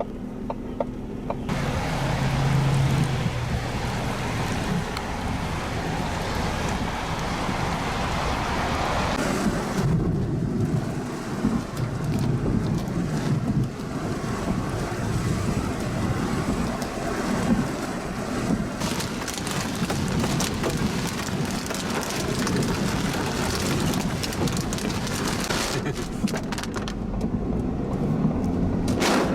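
Heavy rain driven by high wind, a dense steady wash of noise that comes up sharply about a second and a half in and stays loud.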